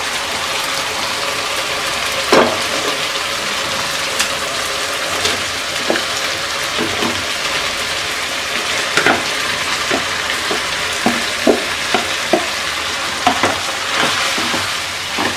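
Onion, tomato and spice masala sizzling steadily in a pan as boiled potatoes are tipped in and stirred with a wooden spoon, with scattered short knocks and clicks along the way.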